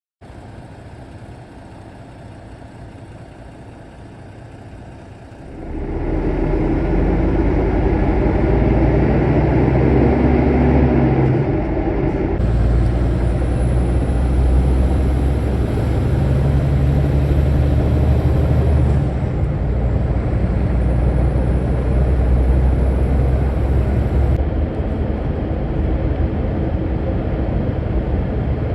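Scania S450 truck engine running, first moderately and then much louder from about six seconds in. Twice a high whine rises and holds for several seconds before cutting off.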